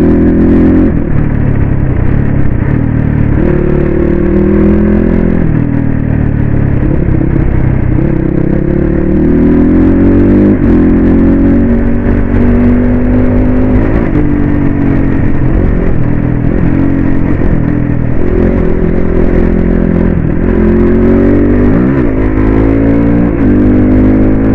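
Crossfire RM250 dirt bike's engine running while riding, its revs climbing and dropping again and again.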